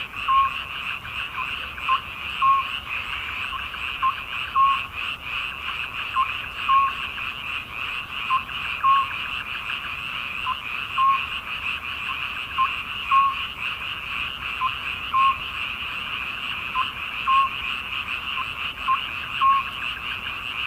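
Chorus of many frogs calling at once in a dense, steady din, with one louder frog giving a short two-note croak about every two seconds.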